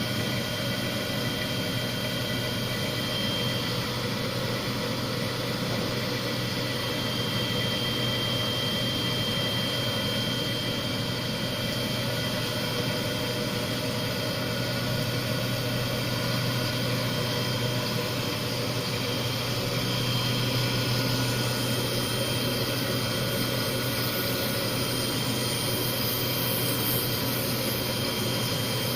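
Small CNC cylindrical grinder running steadily: its motor-driven grinding wheel spindle gives a constant hum with a thin high whine over it.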